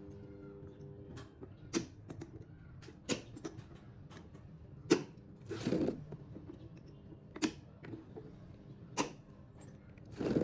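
A series of about six sharp clicks and knocks, a second or two apart and unevenly spaced, with a short rasp about halfway through, over a faint steady hum that fades in the first second or so.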